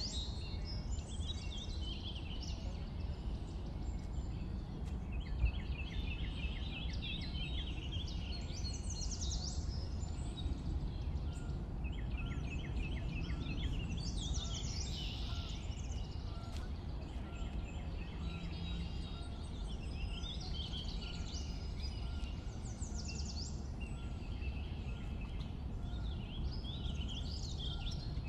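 Several songbirds singing and calling throughout, with quick chirps and trills, over a steady low background rumble.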